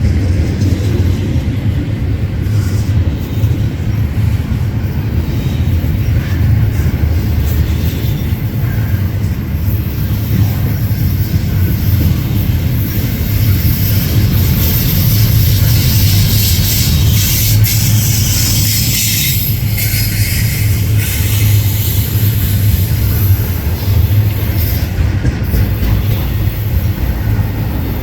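Freight train cars rolling past at close range with a steady, loud low rumble of wheels on rail. A brighter hiss of wheel noise builds up through the middle stretch.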